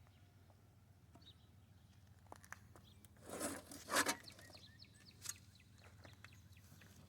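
Quiet outdoor ambience with a few short scrapes or scuffs, the loudest about four seconds in, and faint bird chirps.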